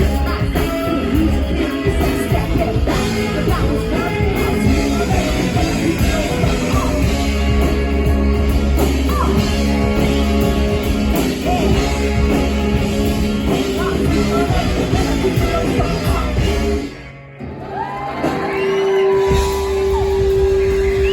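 Live rock band with vocals and drums playing loud through a hall PA, as heard from the crowd. About 17 seconds in the full band cuts out abruptly, and a single held note carries on into a sparser passage.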